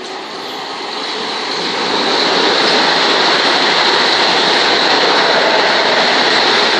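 Class 375 electric multiple unit running through the station: wheel-on-rail rumble and rushing noise that grows over the first two seconds, then holds steady and loud with a high hiss.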